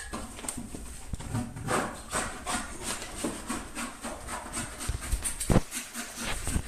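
Wood fire burning in a fireplace, crackling and popping irregularly with a hiss.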